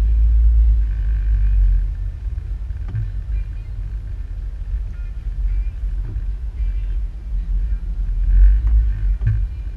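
Low, steady rumble of a car driving, heard from inside the cabin, with a few faint knocks.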